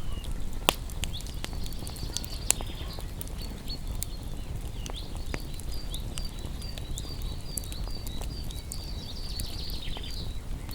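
Wood campfire crackling, with irregular sharp pops, two of them louder, under a low steady rumble of the flames. From about six seconds in, a quick run of high chirps repeats over the fire.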